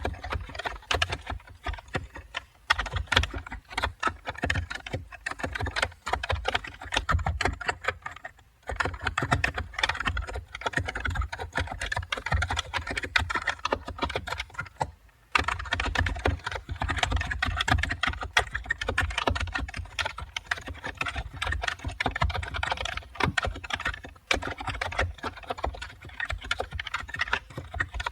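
Typing on a computer keyboard: a fast, steady run of keystroke clicks, with brief pauses about eight seconds in and again about fifteen seconds in.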